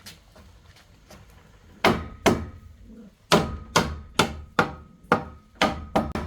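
A metal tool striking wood or bamboo: about ten sharp blows, roughly two a second, starting about two seconds in after a short pause following the first two, with a faint metallic ring between strokes.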